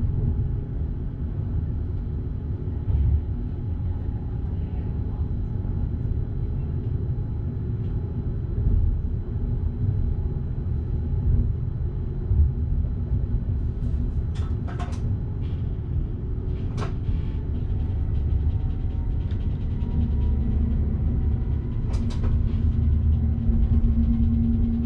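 Passenger train running along the line, heard from the driver's cab as a steady low rumble. A few sharp clicks or squeaks come through it about fourteen, seventeen and twenty-two seconds in.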